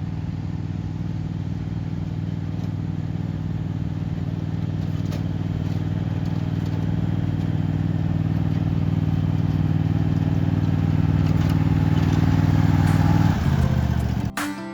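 An engine running at a steady pitch and slowly getting louder, then dropping to a lower pitch and fading about a second before the end.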